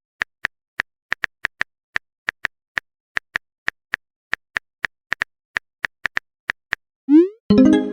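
Phone keyboard typing sound effect: a run of short, crisp taps at an uneven pace, about three a second.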